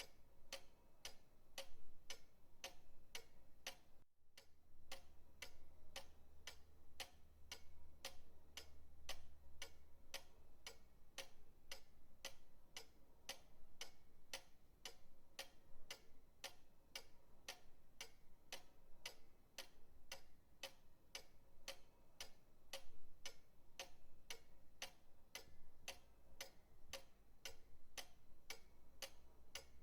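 Pendulum clock ticking steadily at about two ticks a second, with a brief dropout about four seconds in.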